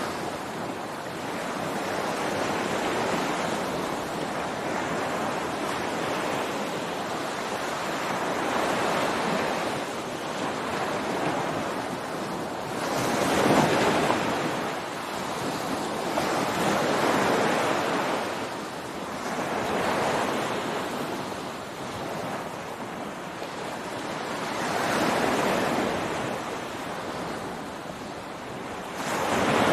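Ocean surf breaking on a beach: a continuous wash of water that swells with each wave and ebbs between them, one wave every few seconds. The biggest wave breaks about halfway through.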